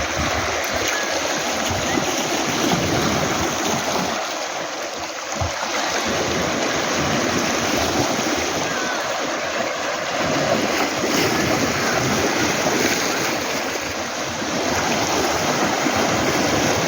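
Sea waves washing in and out over a beach of round pebbles, a continuous rushing wash that eases briefly about five seconds in and again near the end.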